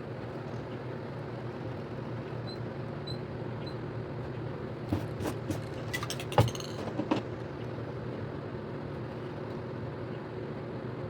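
A steady mechanical hum, with a short run of sharp clicks and knocks about five to seven seconds in.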